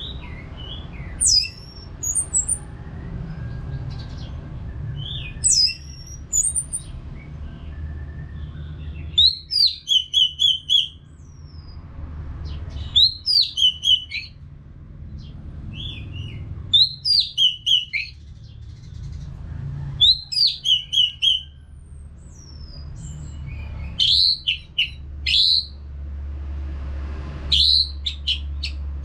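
Orange-headed thrush singing: phrases of quick, high notes and whistles, each about a second long, repeated every few seconds. A steady low hum runs underneath.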